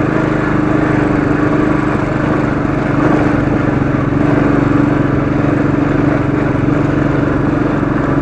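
Royal Enfield Classic 500's single-cylinder engine pulling steadily under load in second gear up a steep rocky climb, getting slightly louder about three seconds in.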